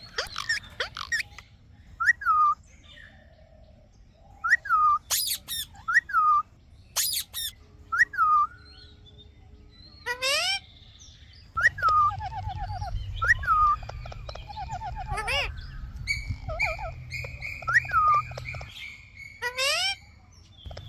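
Indian ringneck parrot calling: short falling chirps again and again, broken by sharp shrill screeches. In the second half come runs of rapid repeated notes over a low rumble.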